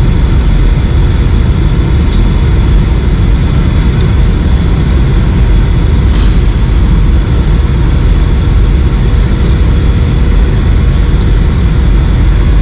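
Steady cabin noise inside a Boeing 737-800 on its approach: a low rumble of engines and airflow with a thin steady whine above it.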